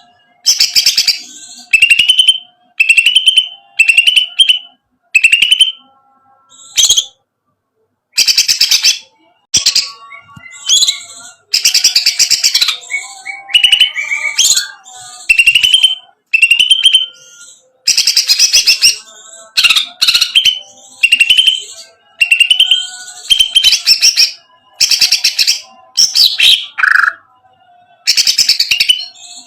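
Cucak ijo (green leafbird) singing in repeated loud bursts about once a second, each a rapid, rattling trill ending in a rising note, with a brief pause about a third of the way in.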